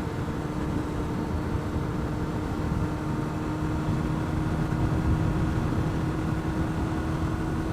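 2009 Honda CBR600RR's inline-four engine running steadily while being ridden, with a dense, even rush of noise over it. The sound swells slightly about halfway through.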